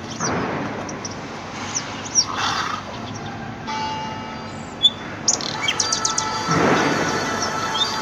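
Birds chirping in short, high, falling calls, with a steady ringing tone that comes in about halfway through and a few soft rushing swells.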